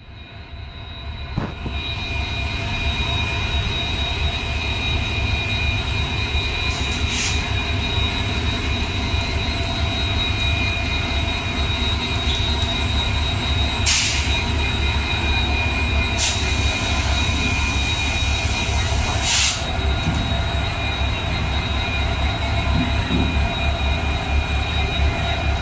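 Diesel-hauled passenger train: steady low rumble of the diesel locomotive with a steady high-pitched whine over it, and a few short, sharp hisses spread through.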